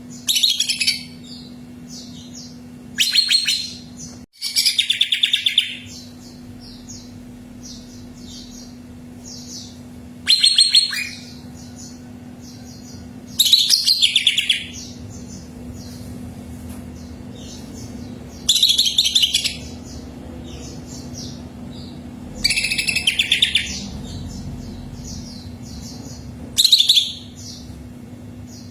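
Cucak ijo (green leafbird) singing: loud, rapid trilled phrases come about every three to four seconds, with softer short chirps in between. A steady low hum runs underneath.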